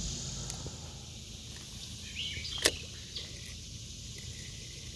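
Outdoor creek ambience: a steady high hiss with a faint low rumble. A brief warbling chirp comes a little after two seconds in, and a single sharp click follows about half a second later.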